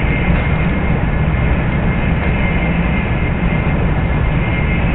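Steady running noise of a Shinkansen bullet train at speed, heard inside the passenger cabin: an even deep rumble and hiss with a faint thin whine held above it.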